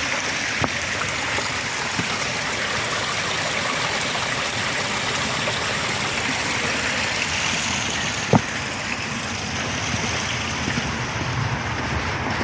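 Water rushing steadily over a small waterfall. There is one sharp click about eight seconds in.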